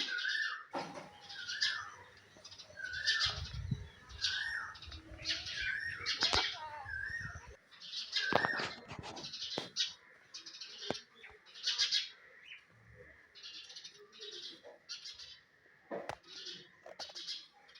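Small birds chirping repeatedly in short high bursts, with a short whistled phrase repeated several times in the first seconds. A low rumble runs for a few seconds near the middle, and there are a few sharp knocks.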